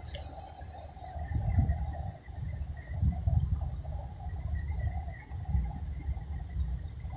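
Wind rumbling in uneven gusts on the microphone over a steady, high-pitched insect chorus.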